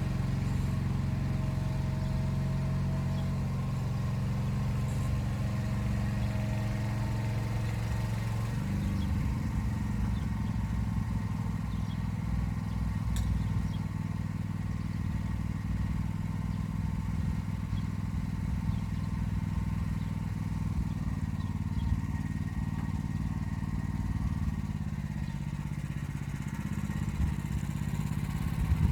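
Motor Sich walk-behind tractor engine running steadily under load while pulling an arrow-type hiller through the rows. About nine seconds in its note changes and the running turns rougher and more uneven.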